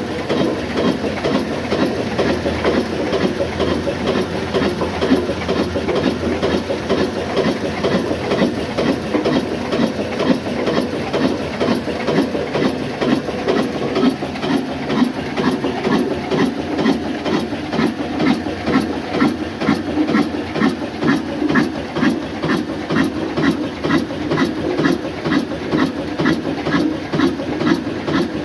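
Old black Ruston Hornsby diesel oil engine running steadily while driving a flour mill, with an even, regular beat that grows more distinct in the second half.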